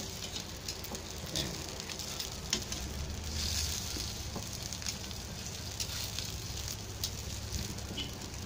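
Pork steak sizzling and bubbling in a pan of soy sauce and calamansi broth, with sharp clicks now and then as metal tongs turn the meat against the pan.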